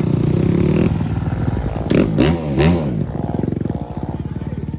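Dirt bike engines running, with a few quick revs rising and falling about two seconds in, then settling to a steadier, quieter engine note.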